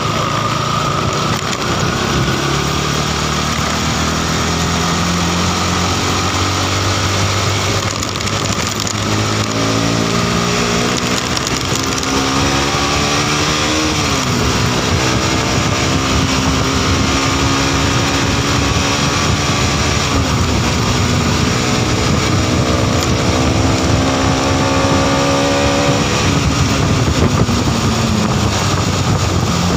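Modenas NS200's single-cylinder engine accelerating hard through the gears, its pitch climbing steadily and dropping sharply at three upshifts, with wind and road noise at highway speed.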